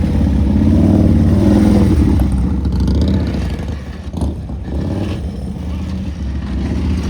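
Motorcycle engine running on the road, steady and loud, with a short rise in engine pitch about a second in.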